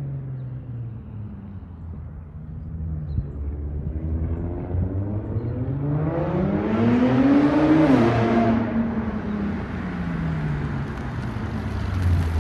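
Infiniti M35h's V6 running through a resonator-deleted exhaust, the note climbing in pitch and loudness to a peak past the middle as it revs or accelerates, then easing back down.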